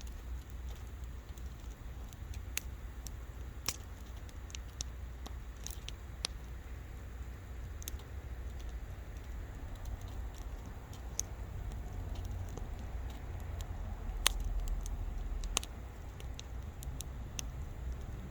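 Wood bonfire crackling: irregular sharp pops and snaps of burning wood over a steady low rumble, with one louder pop about three-quarters of the way through.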